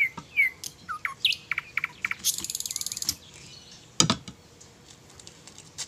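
Small birds chirping: a string of short, quickly falling chirps, then a fast, buzzy high trill about two seconds in. A single sharp knock about four seconds in.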